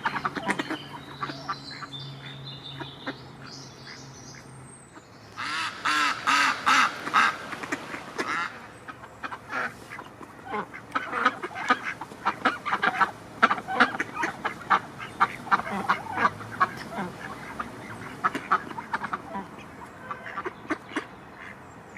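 A flock of ducks quacking repeatedly, with a loud burst of rapid calls about five seconds in.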